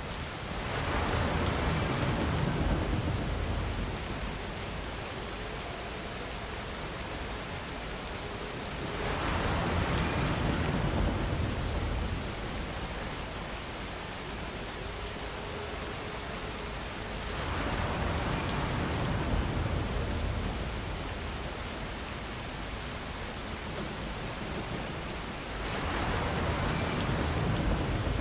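Steady heavy rain falling, with a low rumble of distant thunder swelling up and fading four times, about every eight seconds.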